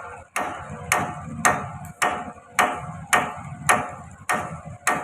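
Steady series of hammer blows on steel, nearly two a second, each with a short metallic ring.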